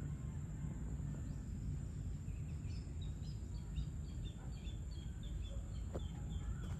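Evening outdoor ambience: a steady low rumble of distant surroundings, with a bird calling a quick run of short, high chirps from a little over two seconds in.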